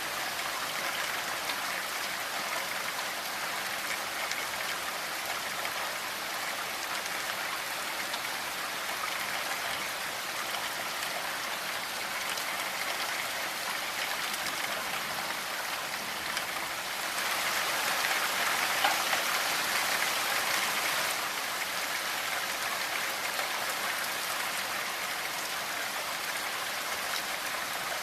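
Steady rainfall, an even patter of raindrops on a surface, growing heavier for a few seconds about two-thirds of the way through.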